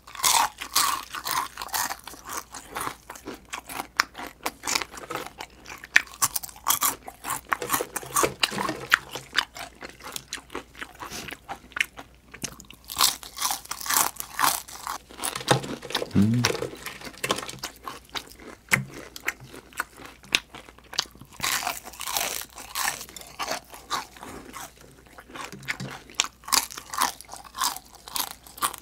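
Close-miked crunching and chewing of crispy deep-fried chicken skin, a dense run of crackles bite after bite.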